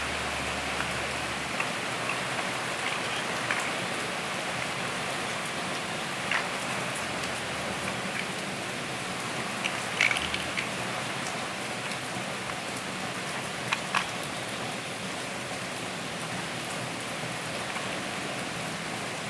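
A steady rain-like hiss throughout, with about half a dozen short, sharp plastic clicks scattered through it, two of them close together near the end: Lego bricks being handled and pressed together.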